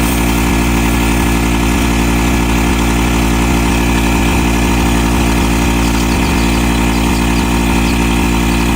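An engine or motor running steadily at an even, unchanging idle.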